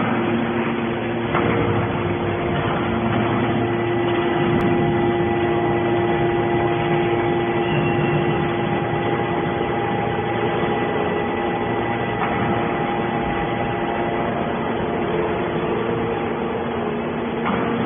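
Hydraulic non-ferrous scrap metal baler running: a steady mechanical hum carrying several held whining tones, with an occasional faint knock.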